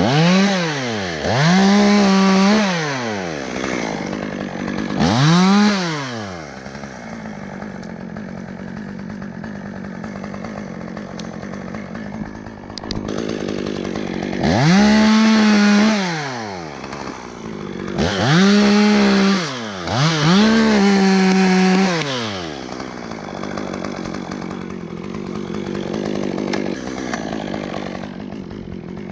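Two-stroke chainsaw revving up to full throttle and dropping back about six times, holding at the top for a second or so on several of them, with the saw idling between.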